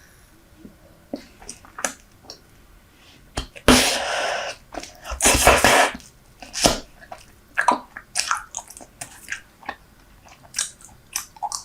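Super Bubble chewing gum chewed close to the microphone, with many short wet clicks and smacks. Two loud, noisy rushes of about a second each come near the middle, followed by a sharp snap.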